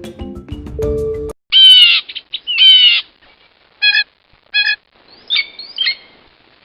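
Light mallet-percussion music stops about a second in, and a toucan calls: two loud calls falling in pitch, then several shorter, spaced notes.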